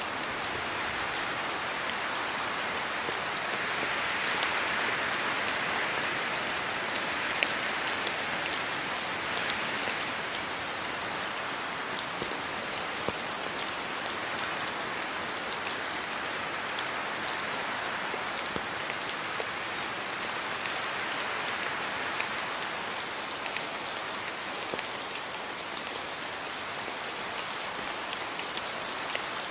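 Steady rain falling on a house yard, an even hiss with many individual drops pattering sharply on hard surfaces, swelling a little in intensity now and then.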